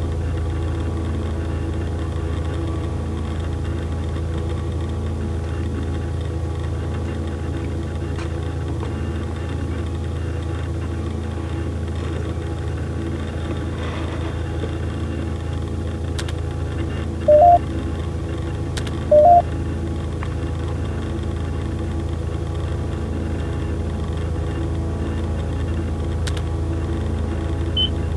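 Steady low electronic drone with a faint repeating pulse, broken by two short beeps about two seconds apart.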